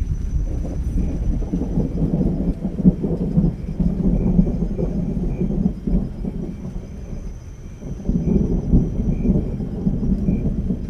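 Thunder rumbling over steady rain, rolling in two long swells with a lull between them.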